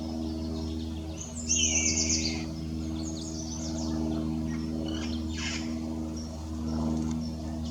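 Birds calling: a short, harsh, raspy call from a red-crowned parrot about a second and a half in, the loudest sound, followed by lighter scattered chirps, over a steady low hum.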